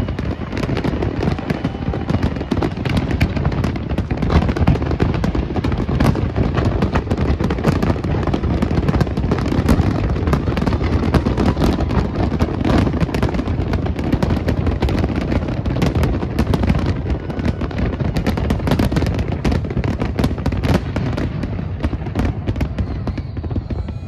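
Fireworks going off in a dense, continuous barrage: rapid overlapping bangs and crackles over a steady low rumble, easing slightly near the end.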